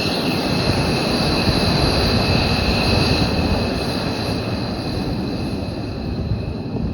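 F-15 fighter's twin jet engines running at high power: a loud roar with a steady high-pitched whine over it, easing off slightly near the end.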